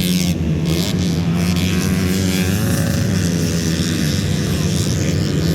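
Dirt bike engines at a motocross grasstrack race, several running at once, their pitch rising and falling as the riders rev.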